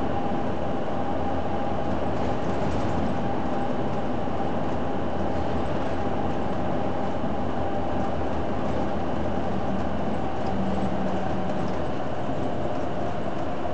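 Hino Blue Ribbon City Hybrid diesel-electric bus running steadily, heard from inside the cabin: even engine and road noise with a steady whine. A brief low hum joins about ten seconds in.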